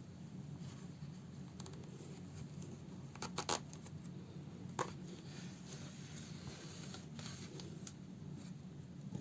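Quiet handling sounds of hand-sewing a fabric slipper with needle and thread: light scratches and a few sharp clicks, a short cluster about three and a half seconds in and one more near five seconds, over a steady low hum.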